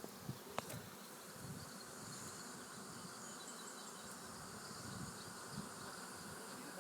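Swarm of honeybees in flight around the microphone, a faint, steady buzz of many bees, with a couple of light clicks about half a second in.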